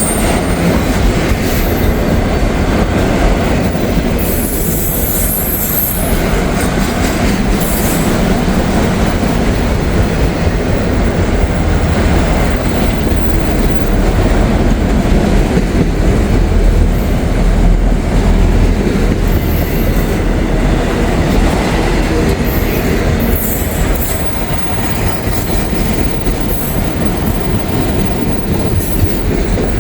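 CSX freight train rolling slowly past into a siding: a steady rumble of wheels on rail, with short high-pitched wheel squeals now and then.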